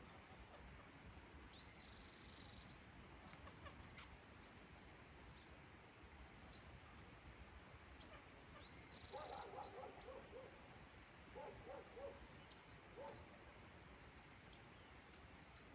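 Faint countryside evening ambience: a steady high insect hiss with a couple of short, high bird chirps, and, a little past halfway, a faint rapid series of animal calls in three short bursts.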